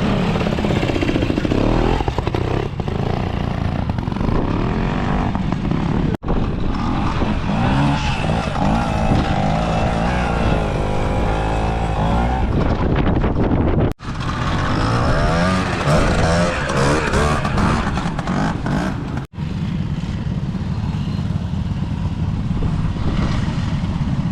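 Classic trials motorcycle engines revving up and down in short bursts as the bikes are ridden over rough off-road ground. Several clips of different bikes follow one another, with abrupt cuts about 6, 14 and 19 seconds in.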